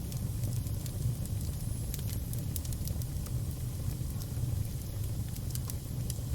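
Fire crackling, with sharp pops and snaps scattered over a steady low rumble of flame.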